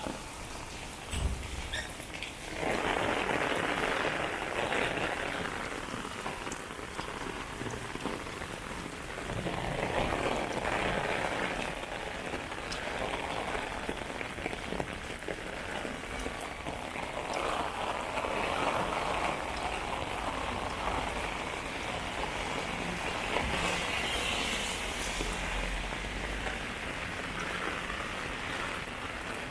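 Heavy rain falling on pavement and on an umbrella overhead: a steady hiss that swells and eases. There is a short thump about a second in.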